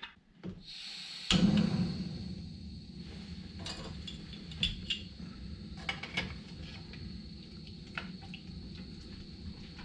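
Camping gas stove being lit: gas hisses on about a second in, catches suddenly, then burns steadily, with a few light metal clinks of a mess tin.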